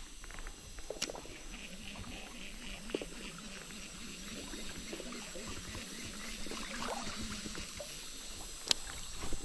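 Small forest stream trickling, with insects droning steadily and a few sharp clicks, one about a second in and another near the end.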